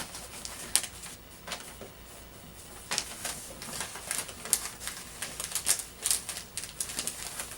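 Wrapping paper crinkling and rustling in short, sharp crackles as a gift is wrapped. A few scattered crackles come first, then they grow busier and more constant from about three seconds in.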